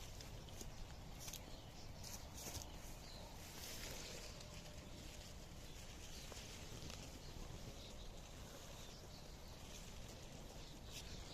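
Faint rural outdoor ambience with scattered soft taps and rustles.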